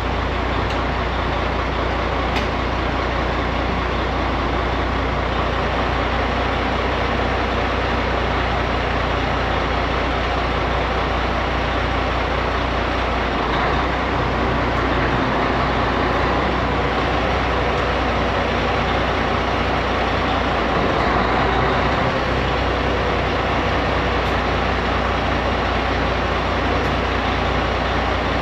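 Dump truck's diesel engine running steadily at idle with the PTO engaged, driving the hydraulic pump for the hoist and tailgate valves.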